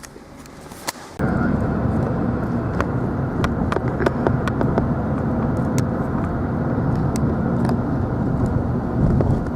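Steady rumble of a moving vehicle that starts abruptly about a second in, with scattered sharp clicks over it.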